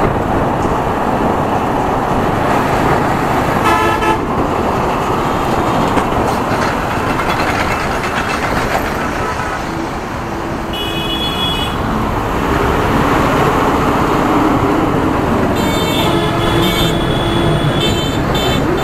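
Steady road and wind noise of a Yamaha R15 V3 motorcycle ride, with vehicle horns honking briefly a few seconds in, about halfway through, and several times near the end.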